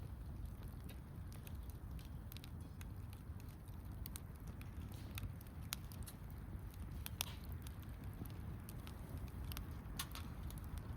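Wood campfire crackling: irregular sharp pops and snaps, a couple of louder ones about seven and ten seconds in, over a low steady rumble.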